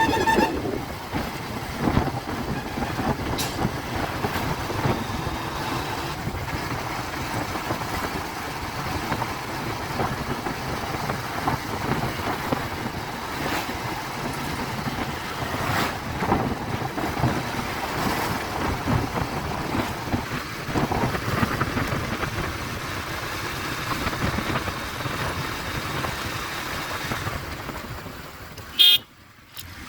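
Riding noise from a Bajaj Pulsar 150 motorcycle on the road: a steady rush of wind and road noise with the engine running underneath. Near the end a sharp loud noise is followed by a sudden brief drop in level.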